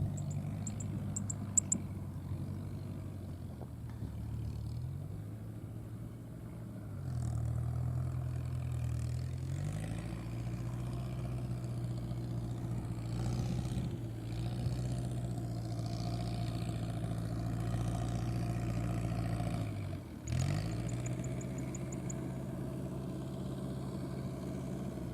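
Fiat 640 tractor's four-cylinder diesel engine running steadily under load while driving a straw round baler. The engine note sags and picks back up a few times. Short rows of rapid high-pitched ticks sound twice, near the start and again after a sudden dip about twenty seconds in.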